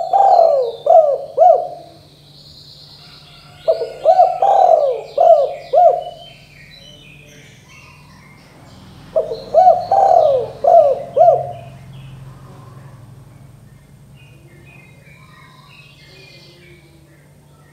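Spotted dove (tekukur) cooing in three phrases of several quick, rolling notes, about four seconds apart, near the start, about 4 s in and about 9 s in. Smaller birds chirp faintly in the background over a steady low hum.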